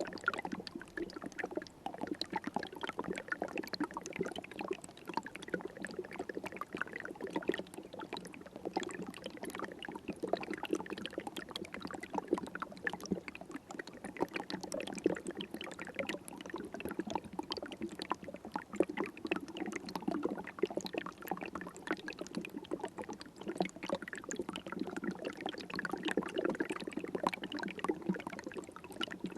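River water flowing and gurgling steadily, with a continuous patter of small splashes.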